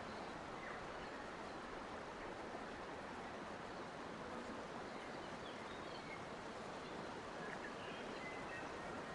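Steady rush of running water, with faint, scattered bird chirps over it.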